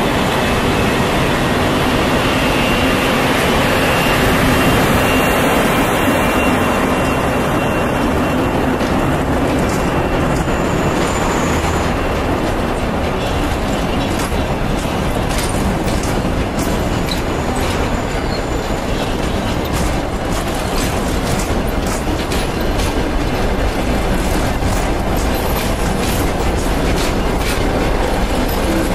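ChS7 DC electric locomotive departing with an express passenger train: the locomotive passes first, then the passenger coaches roll by with their wheels clicking over rail joints. The clicks come faster over the second half as the train gathers speed.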